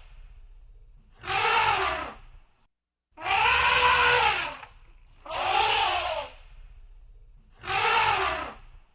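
Elephant trumpeting: four loud calls, each about a second long, rising and then falling in pitch, about two seconds apart.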